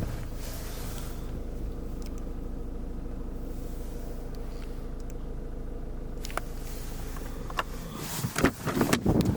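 Ford Mondeo engine idling steadily. Near the end come a cluster of louder clunks and knocks.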